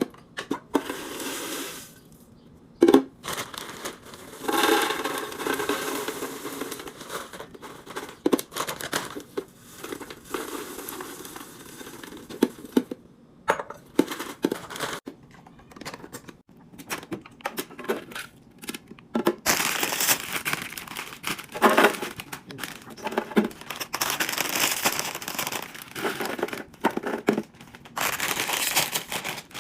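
Plastic grocery packaging crinkling and rustling as it is handled and unpacked, in uneven stretches, with frequent sharp clicks and knocks of items and containers being set down.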